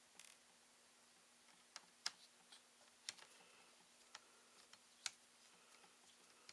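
Faint, scattered clicks and taps of small parts being handled and undone while taking a ThinkPad T61 laptop apart, about six sharp ticks with the loudest about two and five seconds in, over a faint steady hum.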